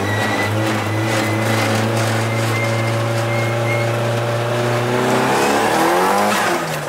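Nissan S13's SR20 four-cylinder engine heard from inside the cabin, running with a steady drone as the car drives, then revving up about five seconds in and falling away near the end.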